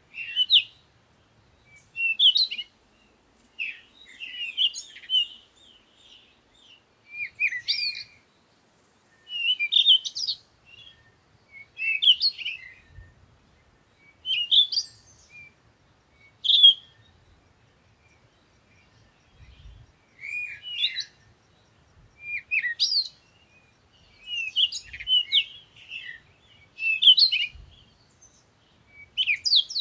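Songbirds chirping and singing in short, quick phrases every second or two, with brief quiet gaps between them.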